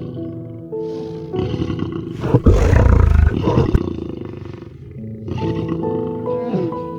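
A large animal roaring once, a deep rough roar about two and a half seconds in that lasts about a second and a half. Background music with held, sustained notes plays throughout.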